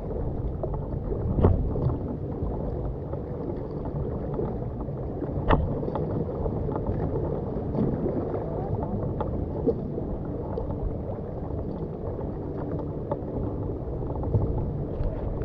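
Water sloshing and splashing against a kayak as it is paddled, with a few sharp knocks, the loudest about a second and a half in.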